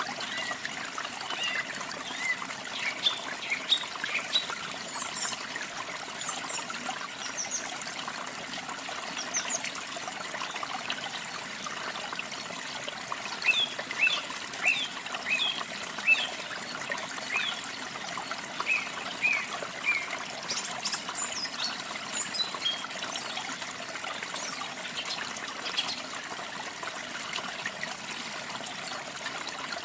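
Steady trickling, splashing water, with small songbirds chirping in scattered runs of short, quick notes: a cluster near the start, another about halfway through, and a few more a little later.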